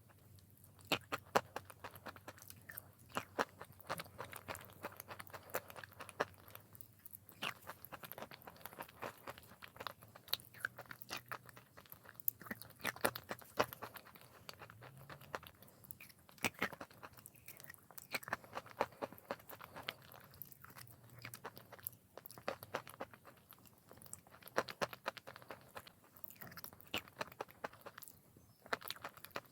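Close-up crunching and chewing of chalk: dense, sharp crackles of bites and chewing, with brief pauses between mouthfuls.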